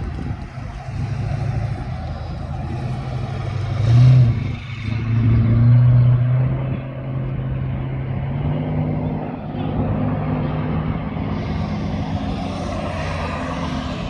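V8 muscle car engine running under load, surging loudest about four seconds in and again for a couple of seconds after, then settling to a steady run.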